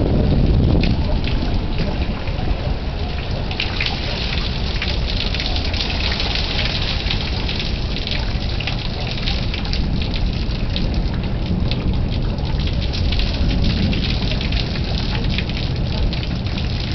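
Heavy thunderstorm rain falling steadily, a dense patter of drops over a low rumble that is strongest at the start.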